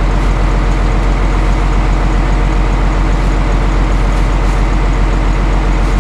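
Heavy truck engine idling steadily, an even low pulsing that does not change.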